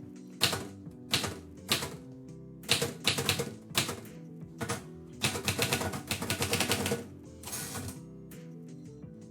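Keys of a 1934 Royal Model O manual typewriter striking in irregular bursts, with a quick run of keystrokes about five seconds in, over background music with held notes.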